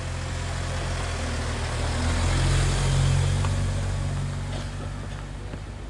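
A motor vehicle's engine running close by, a low hum with road noise that grows louder to a peak midway and then fades away.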